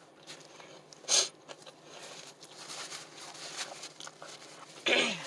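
Close-up mukbang eating sounds: soft chewing with small clicks and rustles, a short sharp crinkle about a second in, and a brief low vocal hum near the end.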